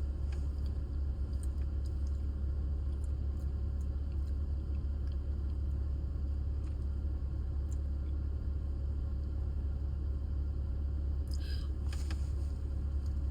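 Steady low rumble of a parked car's idling engine heard inside the cabin, with a few faint clicks and a brief vocal sound near the end.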